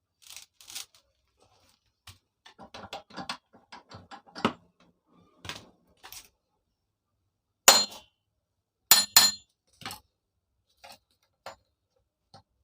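Metal tools and parts clinking and knocking while a rusty Stihl 070 chainsaw is being taken apart, a quick run of small clicks and taps, then one loud ringing metal-on-metal strike about eight seconds in and two more in quick succession about a second later.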